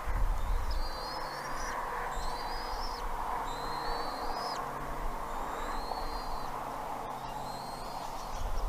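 Bald eagle giving a series of thin, high, rising whistled calls, each about half a second long, repeated every second or so over steady background noise.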